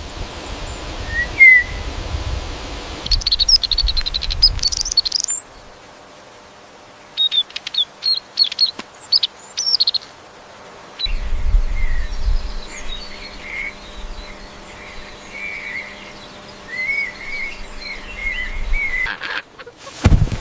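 Birds chirping and singing in a string of short takes: quick high chirps at first, then a warbling song.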